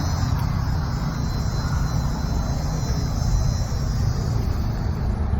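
Wind buffeting the phone's microphone: a steady low rumble that wavers throughout, with faint outdoor hiss above it.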